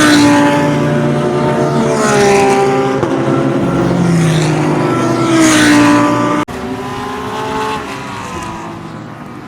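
GT3 race cars passing at speed one after another, each engine note swelling and dropping in pitch as it goes by, three passes in all. About two-thirds of the way through the sound cuts suddenly to quieter, more distant engine noise.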